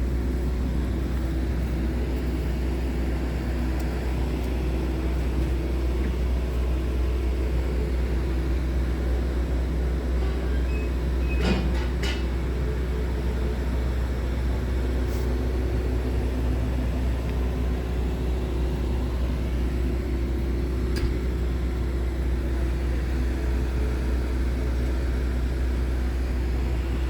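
Scania R tractor unit's diesel engine running steadily, a constant deep rumble with no revving. There are a few short clicks about halfway through and once more later.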